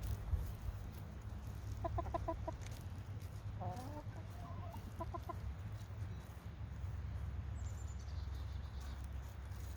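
Chickens clucking: short runs of quick clucks about two seconds in and again around five seconds, with a brief bending call between them, over a steady low rumble.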